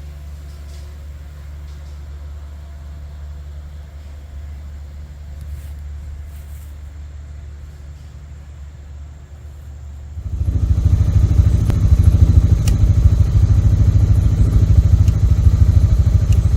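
Tractor engine running with a steady low hum. About ten seconds in, a much louder, rough low rumble suddenly takes over and continues.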